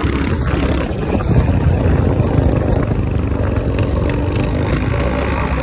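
Motorcycle running on the road, a steady dense rumble with no pauses.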